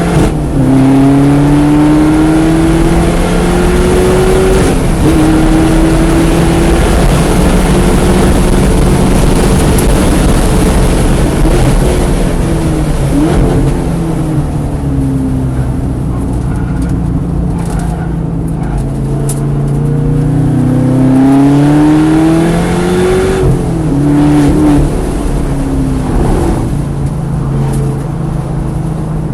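Car engine driven hard, its revs climbing again and again and dropping back at each shift or lift. It runs lower and quieter through a stretch in the middle.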